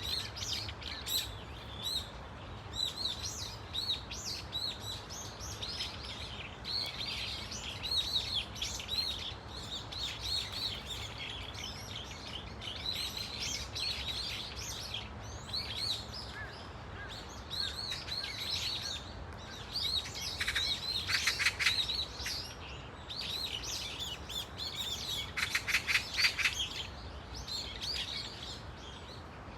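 A flock of brown-eared bulbuls calling: many overlapping high, short calls. Two louder harsh, rattling bursts come about two-thirds of the way in and again a few seconds later.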